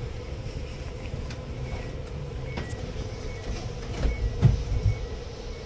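Lastochka electric train running, heard inside the passenger car: a steady low rumble with a constant hum, scattered light clicks, and a few heavier low thumps about four seconds in.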